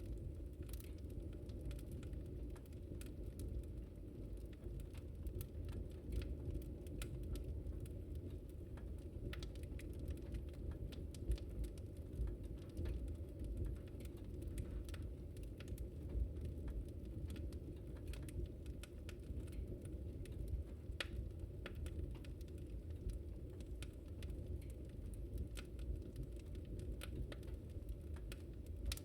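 Wood fire burning: a steady low rumble from the flames, with many short, irregular crackles and pops from the burning wood.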